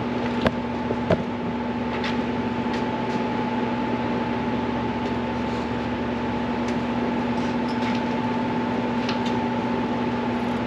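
Steady machine hum of a fan or ventilation unit, with a few light clicks and taps of tools or parts being handled, mostly in the first couple of seconds.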